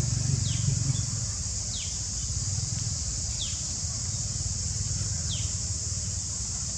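A steady high-pitched insect chorus, such as cicadas or crickets, with a bird giving a short falling chirp four times, about every one and a half to two seconds. A low rumble eases off after the first second.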